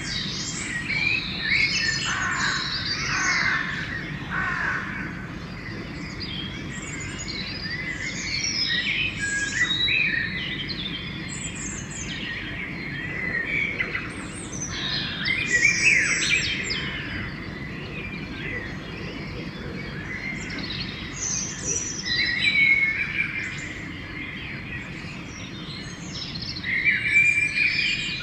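Dawn chorus of several songbirds: many overlapping chirps and short song phrases, coming in louder clusters every few seconds, over a steady low background hum.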